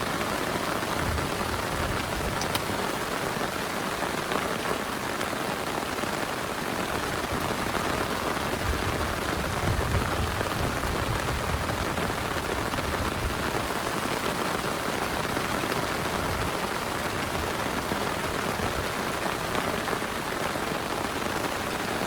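Heavy rain falling steadily on a plastic tarp, a dense, even patter with no let-up.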